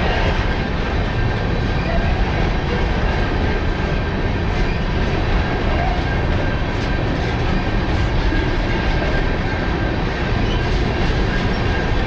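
Freight train cars rolling past a grade crossing: a steady rumble of steel wheels on the rails.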